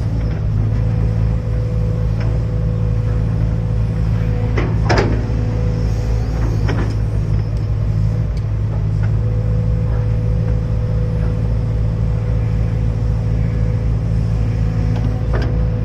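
Hydraulic excavator's diesel engine running steadily with a low hum, broken by a few sharp knocks.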